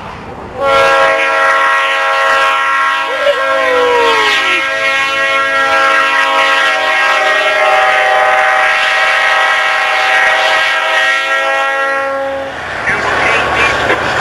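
Locomotive air horn sounding one long blast of about twelve seconds, several tones at once held steady, then cutting off. A rushing noise follows.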